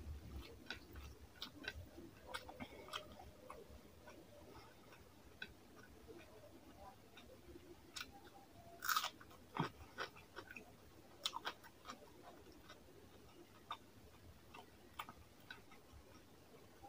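Close-up chewing of rice and fish curry, with irregular mouth clicks and smacks. The loudest burst of chewing comes about nine seconds in.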